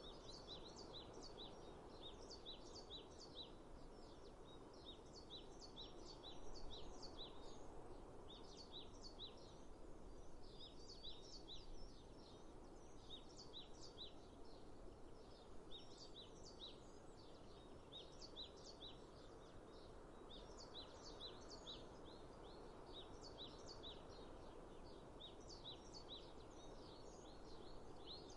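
Faint birdsong: many small birds chirping in quick, repeated short notes throughout, over a steady low hiss of outdoor ambience.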